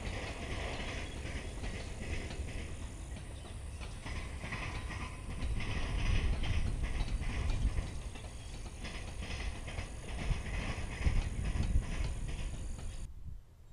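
Passenger cars of a CSX executive train rolling past, their steel wheels clacking over the track in a loose rhythm over a low rumble. The sound cuts off suddenly near the end.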